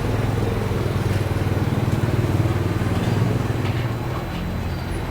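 An engine running at low revs, a steady low hum that grows louder about two seconds in and eases off after about three and a half seconds, with a few light clicks.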